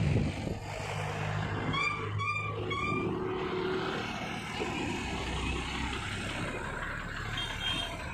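A motor vehicle engine running steadily, with three short high-pitched chirps about two seconds in.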